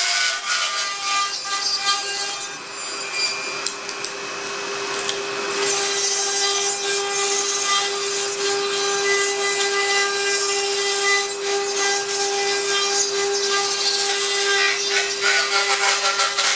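CNC router spindle whining at a steady pitch while its cutter mills carbon fibre sheet, with a gritty rasping cut over the whine. The cutting noise eases off between about two and five seconds in, then picks up again.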